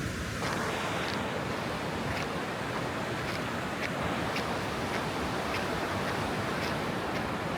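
Ocean surf washing onto a beach as a steady, even rush of waves, with faint footsteps in sand about twice a second.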